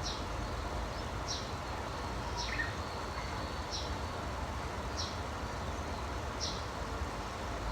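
A small bird repeating a short, high, falling chirp about every second and a bit, with one lower call from another bird about two and a half seconds in, over a steady background hiss.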